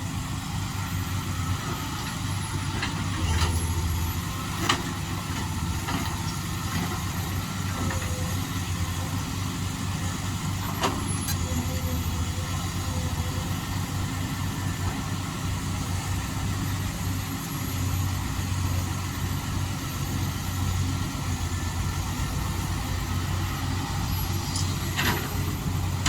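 A motor vehicle's engine running steadily, with a continuous low rumble and a few faint knocks.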